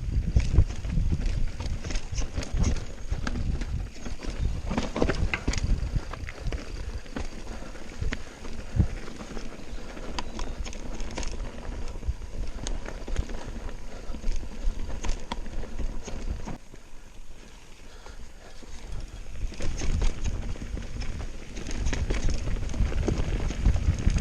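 Mountain bike descending a rough, rocky trail: a fast, irregular clatter of tyres, chain and frame over stones, over a low rumble. It drops quieter for a couple of seconds about two-thirds of the way through, then picks up again.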